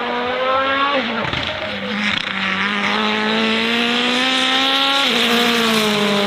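Racing car engine accelerating hard, its pitch rising through the revs and dropping sharply at upshifts about a second in and again near five seconds.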